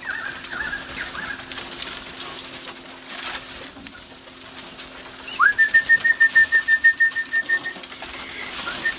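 Bird whistles: a few soft falling whistles, then about five seconds in a rising whistle that runs into a fast, steady string of piping notes at one pitch for a couple of seconds. This is a bird alarm call, which is taken as the sign of a wedge-tailed eagle about.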